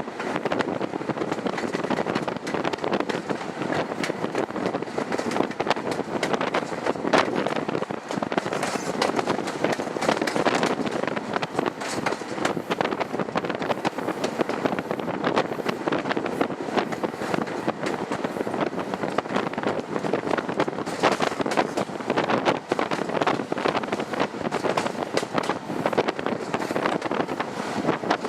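Diesel train running: a steady rushing noise with many small clicks and knocks throughout, and wind buffeting the microphone.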